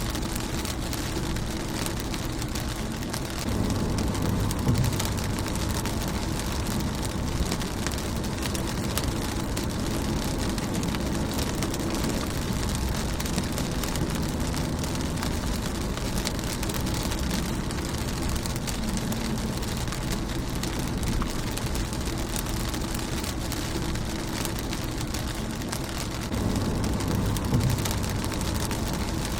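Rain falling on a car's windshield, a steady patter of many small drops. A low rumble swells up twice, about four seconds in and again near the end.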